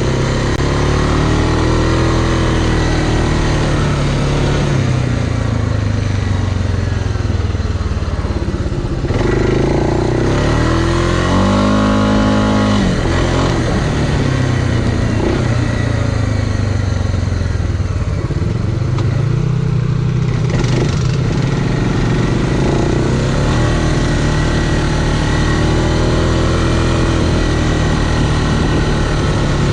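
Off-road vehicle engine running and revving up and down repeatedly while working through mud, with one hard rev about twelve seconds in.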